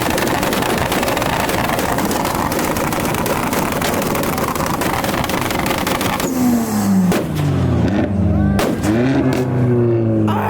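A car engine held at high revs with a dense crackling roar for about six seconds, then let down and blipped up and down several times, with sharp exhaust pops and bangs between the revs.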